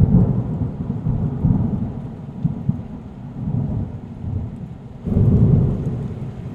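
Toyota Corolla on a rough road, heard from inside the cabin: a low rumble with irregular thumps, growing louder about five seconds in.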